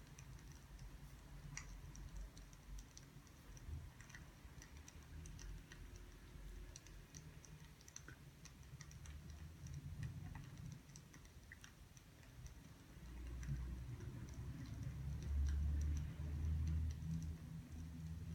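Faint, irregular small clicks and ticks, scattered unevenly, over a low rumble that grows louder about two-thirds of the way through.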